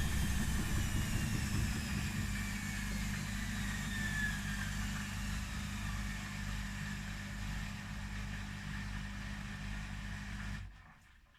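Washing machine drum spinning down at the end of the quick-wash cycle's final spin: a steady motor hum with a whine that slowly falls in pitch, fading gradually, then stopping abruptly about a second before the end.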